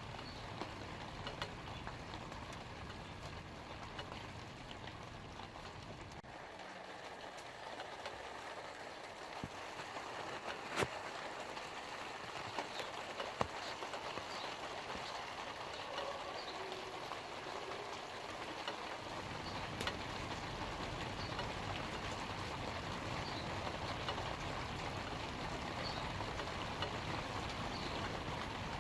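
Light rain falling on leaves: a steady patter with scattered drips and a few sharper drip ticks. A low rumble underneath fades out about six seconds in and comes back about nineteen seconds in.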